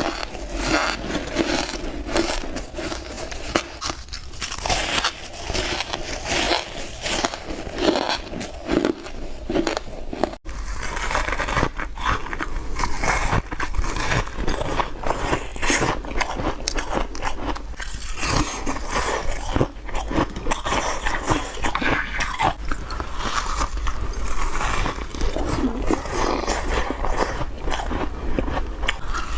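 Ice being bitten and crunched between teeth close to the microphone, one rapid crunchy bite after another, with a brief sudden break about ten seconds in.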